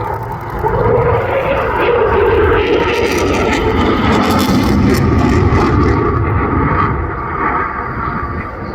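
Eurofighter Typhoon's twin EJ200 turbofan engines on a high-speed pass at just below 700 mph. The jet noise swells about a second in, stays loud through the middle and eases off near the end, its pitch dropping as the aircraft goes by.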